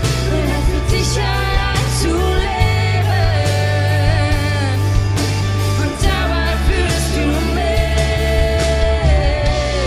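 Live band playing a rock-style worship song: heavy bass and drums under a sung melody line.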